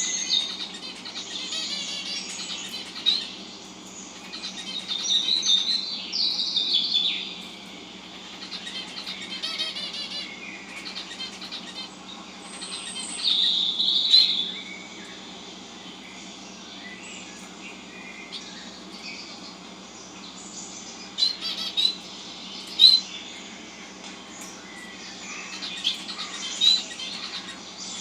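Small birds chirping and calling in bursts of quick, high chirps, with quieter stretches between; the loudest bursts come at the start, around the middle, and as a few sharp single chirps in the last third.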